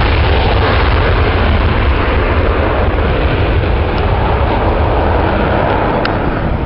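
Loud, steady roar of a jet aircraft flying past, thinning out at the very end.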